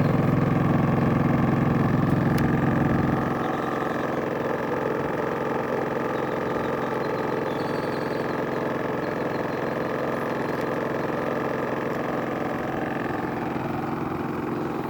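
Champion 4650-watt inverter generator's engine running steadily; about three seconds in its low hum drops away and it settles to a quieter, even note.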